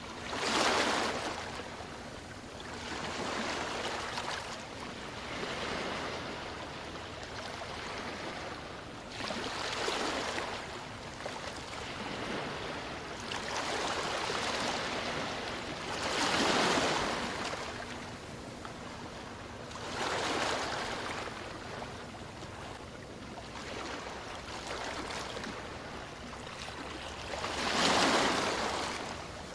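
Sea waves washing in, swelling and fading every few seconds, with a faint steady hum underneath.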